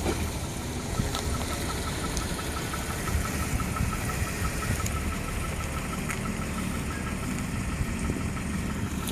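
Car engine idling, with a run of short, even high beeps repeating about four times a second from about a second in.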